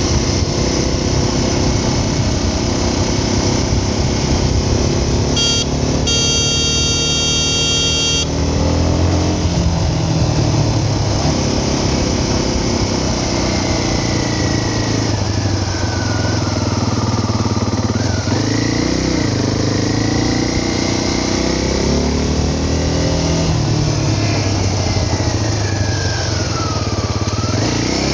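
Motorcycle engine running under way, its revs rising and falling. About six seconds in there is a brief high pitched tone lasting about two seconds.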